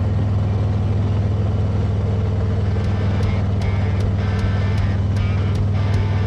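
Motorcycle engine running steadily at road speed. About three seconds in, a regular ticking starts on top of it, about two and a half ticks a second.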